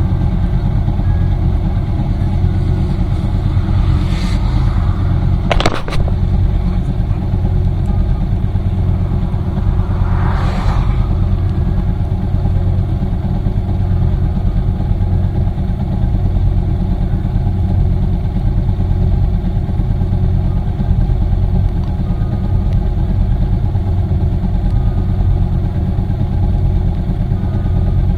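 Steady engine and wind rumble of a motorcycle cruising on a highway. A sharp knock comes just before six seconds in, and a passing vehicle swells and fades around ten seconds.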